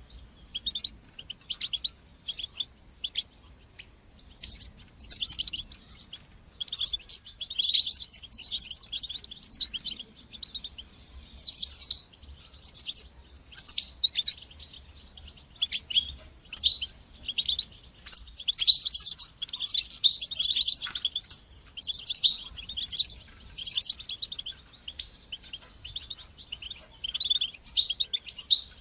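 European goldfinch singing: irregular bursts of rapid, high twittering and chattering phrases with short pauses between them, denser about a third of the way in and again past the middle.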